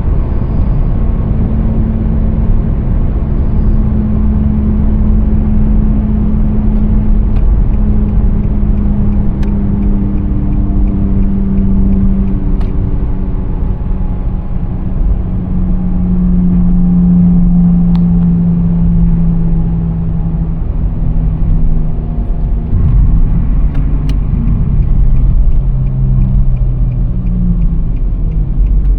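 2017 Nissan Sentra SV driving, with low road rumble and a steady hum whose pitch slowly drops across the stretch and wavers near the end.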